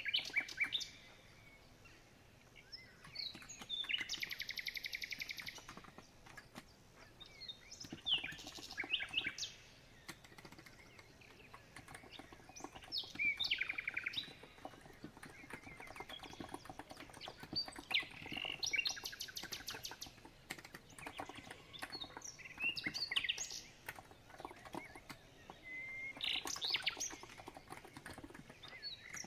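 Songbird chirping in short repeated phrases every few seconds, over a steady patter of soft keystrokes on a COX Empress electrocapacitive keyboard.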